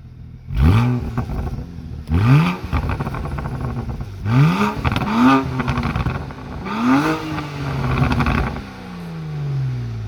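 BMW E90 335i turbocharged straight-six revved in a series of quick blips through a Wagner downpipe and a straight-piped rear silencer, crackling as the revs drop. The last rev is held longer and falls away slowly near the end.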